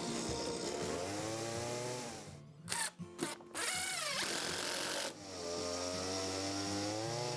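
Power tools working wood: a motor whine that falls and rises in pitch as it takes and sheds load, broken by a few short bursts about two and a half seconds in, then about a second and a half of harsh cutting noise before the whine returns.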